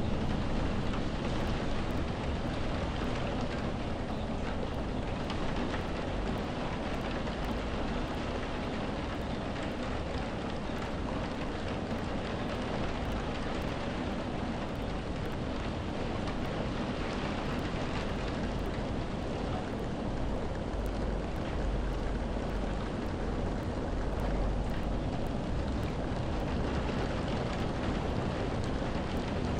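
Steady, continuous rain with a deep low rumble underneath.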